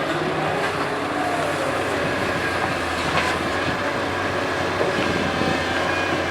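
Doosan DK225LCA hydraulic excavator at work: its diesel engine runs steadily under load with a faint hydraulic whine, and a few metallic clanks come from the machine.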